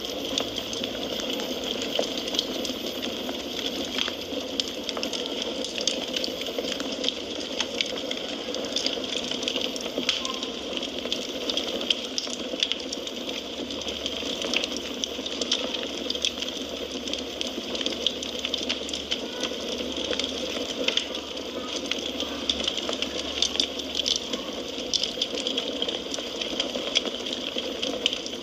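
Wood fire crackling in a fireplace: a steady hiss dotted with frequent small, sharp pops and snaps.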